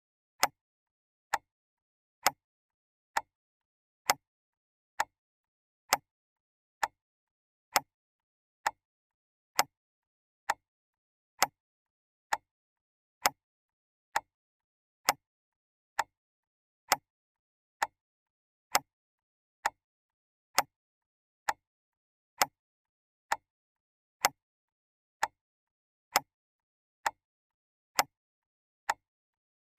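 Mechanical clock ticking steadily: sharp, dry ticks a little faster than one a second, with silence between them.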